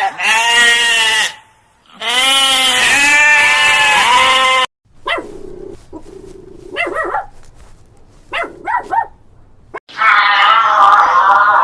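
A run of different animals' calls. First come two long, loud cries that waver in pitch, then quieter, shorter calls with a few quick chirping bursts. A louder call starts near the end.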